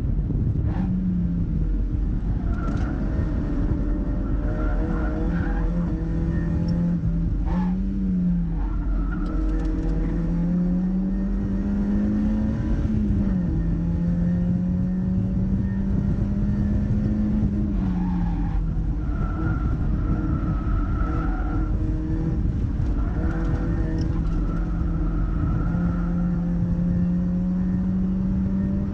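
Mazda MX-5's four-cylinder engine under hard driving on track, heard continuously from the car. Its pitch climbs through each gear and drops sharply at the changes, several times, over steady wind and road noise, with short thin tyre squeals at times.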